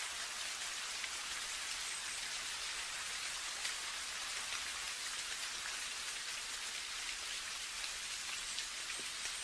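Steady rain falling, a dense even patter with scattered individual drops ticking on a surface.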